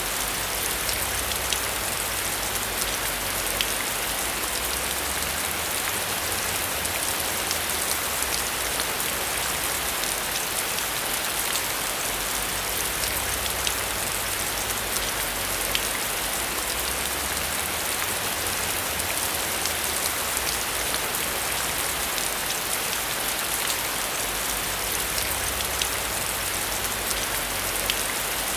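Steady rain falling, with many individual drops landing as sharp ticks.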